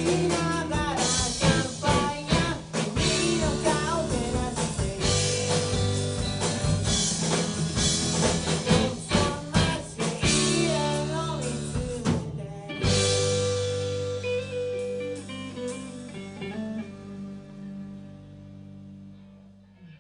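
Rock band playing live, guitars and drum kit driving hard with frequent drum hits, then a short break and a final chord struck and left ringing, fading out slowly: the song's ending.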